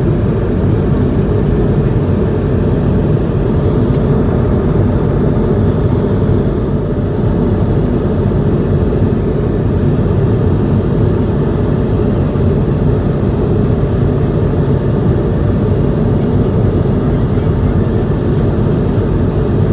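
Steady, loud cabin rumble of an Airbus A220-100 airliner, heard from inside the economy cabin: its Pratt & Whitney PW1500G turbofan engines and the airflow over the fuselage make an even roar that holds without change.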